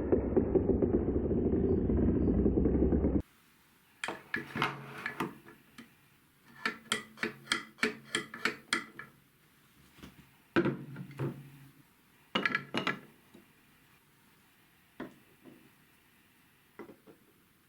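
Marbles running on a TrixTrack marble run: a dense rolling rumble that cuts off abruptly about three seconds in, then scattered sharp clicks and clacks as marbles knock against and drop through the track pieces, with a quick run of clicks around the middle.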